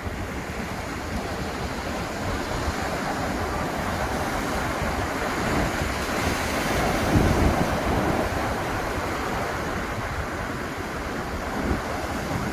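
Atlantic surf washing onto the beach, a steady wash that swells to its loudest a little past halfway and then eases, with wind rumbling on the microphone.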